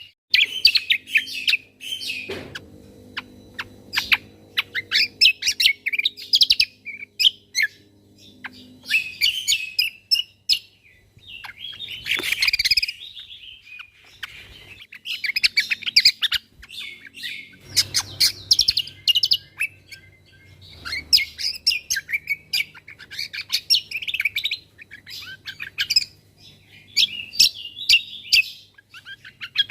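Cucak kombo (great iora) singing: phrases of fast, sharp chirps and rattling trills, one every second or two with short gaps between them, over a faint low hum.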